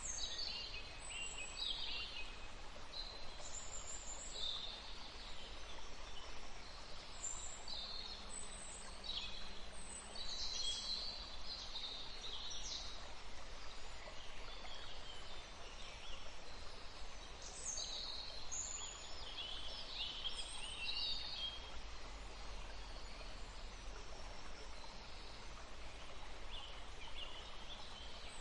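Forest stream running with a steady rush under many small songbirds calling and singing in short phrases. The calls are busiest in the first half and again past the middle, and thin out near the end.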